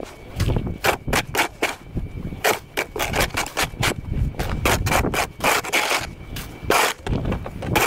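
Snow shovel scraping and pushing snow on pavement in quick repeated strokes, about two a second, with a low rumble underneath.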